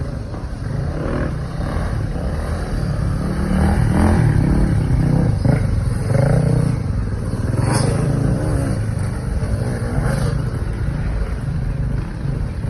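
Honda XR600R's single-cylinder four-stroke engine running hard off-road, its revs rising and falling as the dirt bike is ridden, louder from about four seconds in.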